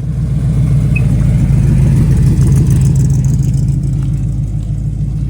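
A car engine running close and loud, a deep rumble that swells over the first couple of seconds and then holds steady.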